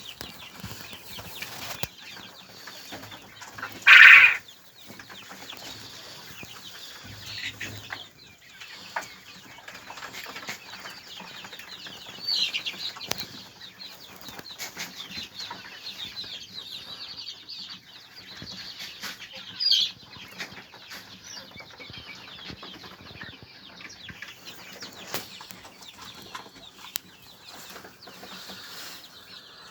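Domestic birds, likely poultry, moving about in their pen, with steady rustling and short calls. Three louder calls stand out about 4, 12 and 20 seconds in, the first the loudest.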